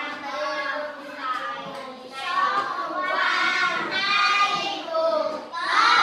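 A group of children's voices singing together in unison, in long held phrases.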